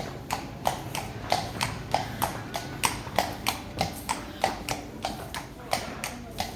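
Hard, even footsteps clicking on a hard floor, about three a second.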